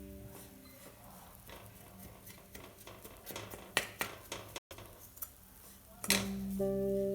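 Scattered light clinks and taps of kitchen utensils and dishes, the sharpest about four seconds in. Soft instrumental music fades out in the first second and comes back about six seconds in.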